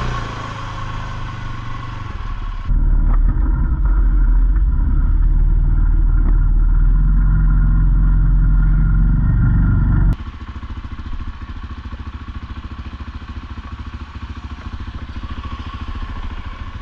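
ATV engine running along a trail. About three seconds in it turns suddenly louder and duller, heavy in the low end. About ten seconds in it drops back to a quieter, evenly pulsing note.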